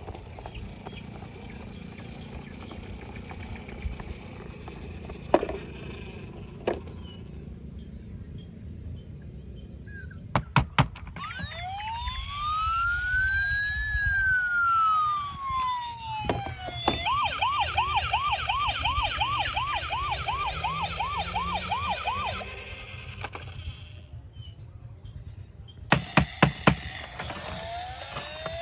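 Toy vehicle's electronic siren: a few clicks, then a slow wail that rises and falls, then a fast warbling yelp for about five seconds that cuts off suddenly. Another quick run of clicks comes near the end.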